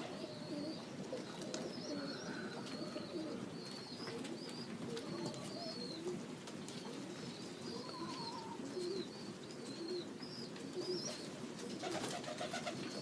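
Domestic pigeons cooing, with thin, wavering high chirps from other small birds over them.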